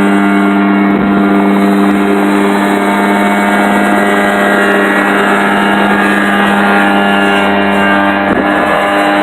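Rotax 503 two-cylinder two-stroke engine of a Mosquito ultralight helicopter running at a steady pitch under flight load, with the rotor turning.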